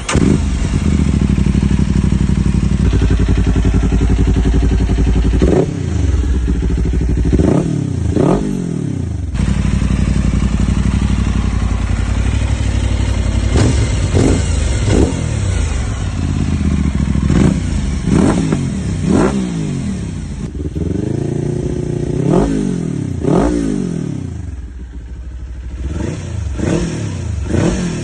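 Sport motorcycle's parallel-twin engine running at idle and blipped over and over: about a dozen quick revs, each rising sharply in pitch and dropping straight back, some in pairs.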